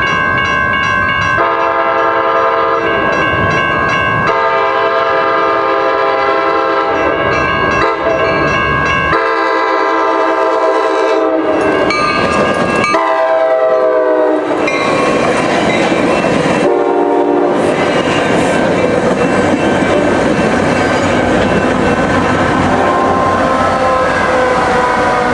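Sounder commuter train sounding its horn in several long blasts, the chord's pitch dropping near the last blast as it goes by, then the rumble and clatter of the train passing.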